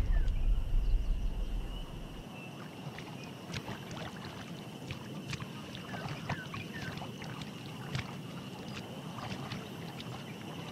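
Swamp water sloshing and splashing as animals move and struggle in it, heavy and low for the first two seconds, then quieter with many small splashes. A thin steady insect drone runs underneath.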